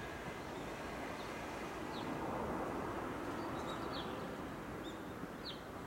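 Small birds chirping, with several short high calls, some sweeping downward, from about two seconds in. Under them is a steady low background rumble that swells slightly in the middle.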